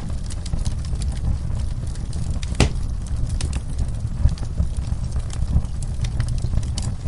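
Wood fire in a fireplace crackling, with many small snaps over a steady low rumble and one louder pop about two and a half seconds in.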